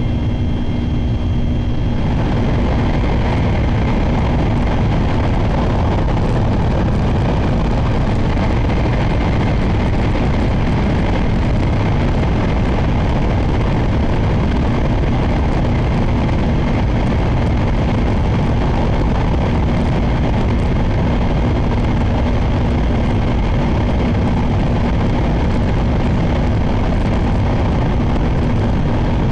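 Sakura Shinkansen train at speed heard from inside the passenger cabin: a steady, loud rumble and rushing noise with a low hum running under it. The noise turns harsher and brighter about two seconds in.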